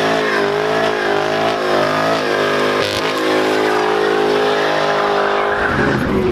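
A car engine revved high and held there, wavering in pitch for the first couple of seconds before steadying, with tyre squeal mixed in, as in a burnout.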